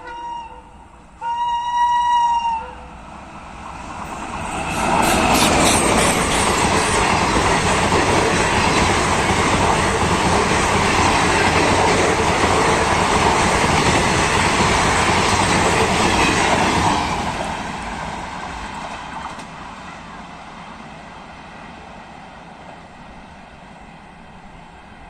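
Indian Railways express train: its locomotive horn gives one short blast, then the train passes close by, loud for about twelve seconds with wheels clattering rhythmically over the rail joints, and fades away as it recedes.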